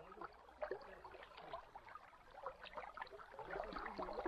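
Faint babble of a forest stream, with scattered small ticks and crackles.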